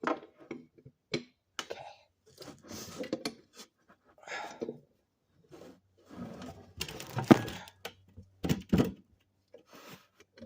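Hands working on a car with tools: scattered knocks, clinks and rustling, the loudest sharp knocks between about seven and nine seconds in.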